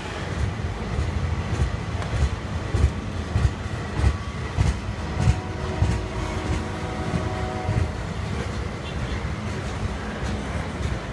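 Covered hopper wagons of a freight train rolling past, a low rumble with the wheels thumping over rail joints about every half second or so.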